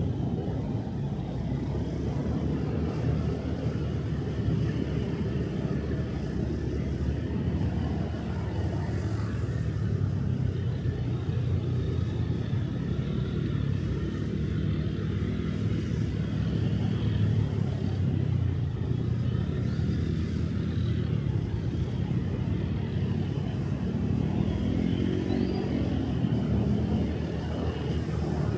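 Motorcycle engine running under way with road and wind noise, rising in pitch a few seconds before the end as it speeds up.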